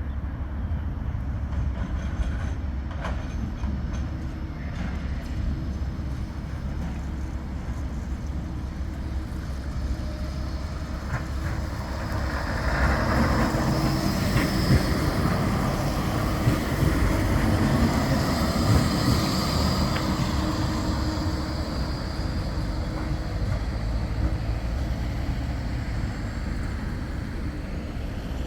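Bombardier Flexity 2 light-rail tram running on the tramway, a steady low rumble that builds to its loudest about halfway through, with a faint high whine, then eases off.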